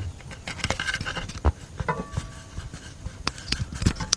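Irregular metallic clicks and clunks from the flywheel and torque converter being worked at by hand under the vehicle, with a short ringing note about two seconds in. The flywheel bolts are loose.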